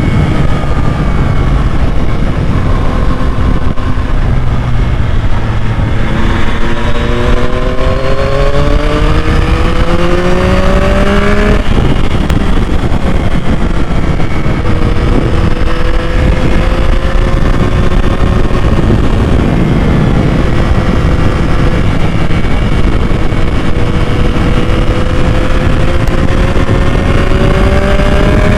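2021 Yamaha MT-09's 890 cc three-cylinder engine riding under load. It climbs through the revs, drops sharply at a gear change about twelve seconds in, runs steadily, then climbs again near the end.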